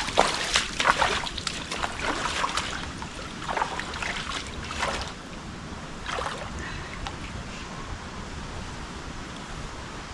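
Wind buffeting the microphone outdoors, with several gusty rushes of noise in the first five seconds, then settling into a steadier blowing.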